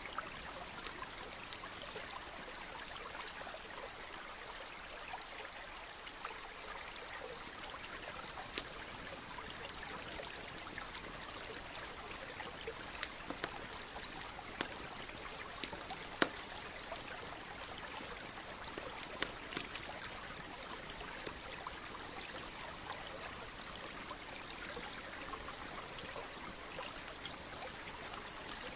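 Stream flowing steadily, with a campfire crackling over it in scattered sharp pops, a few louder ones past the middle.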